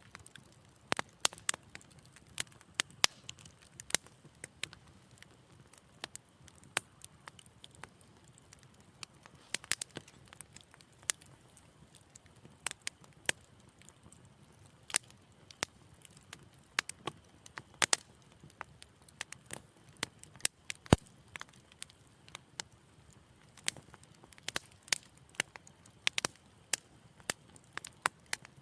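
Wood fire crackling in a fireplace: irregular sharp pops and snaps, sometimes several close together, over a faint low rumble of the flames.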